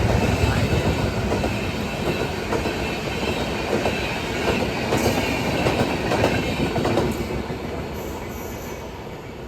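Electric train running on the rails, a steady rumble with the clickety-clack of wheels over rail joints, dying away over the last couple of seconds.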